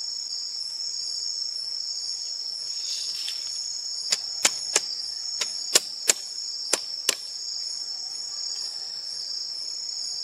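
A steady, high-pitched insect chorus, with a quick, irregular run of about eight sharp knocks from about four to seven seconds in.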